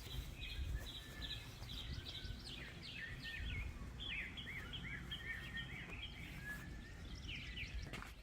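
A songbird singing a long run of quick repeated chirps and looping whistled notes, over a low steady outdoor rumble.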